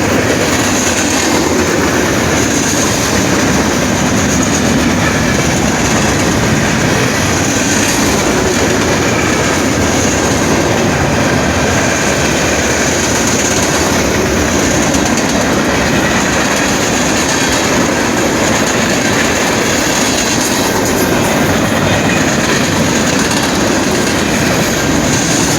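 An eastbound train's railcars rolling steadily past a grade crossing at close range: a continuous loud rolling rumble with a high steady whine over it.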